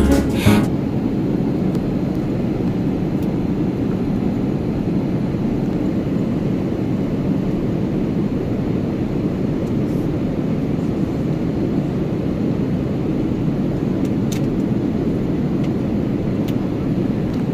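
Steady low rumble of a passenger train running, heard from inside the carriage, with a few faint ticks.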